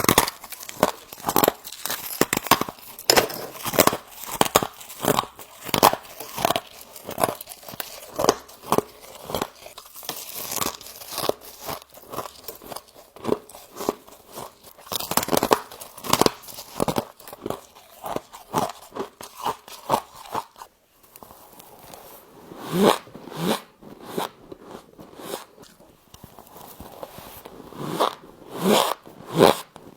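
Close-up crunching and chewing of soft frost, one crunchy bite after another. The crunches come thick and fast, then thin out about two-thirds of the way through.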